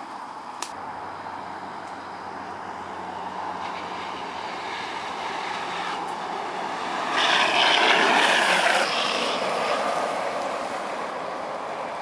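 Wheels rolling past on the road: a rush that swells about seven seconds in and fades again after about nine seconds, over a steady outdoor background, with one sharp click under a second in.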